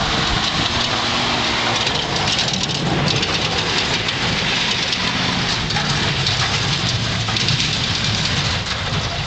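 1969 Dodge Adventurer pickup's engine revving hard, its pitch rising and falling, under a steady hiss of spinning tires during a burnout.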